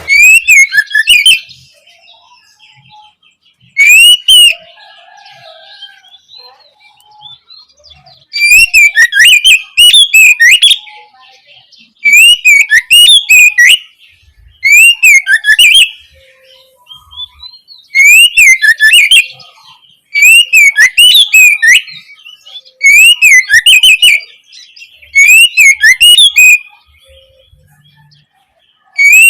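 Oriental magpie-robin (kacer) singing loudly in whistled phrases, each a second or two long. The phrases repeat about every two to three seconds with short pauses between.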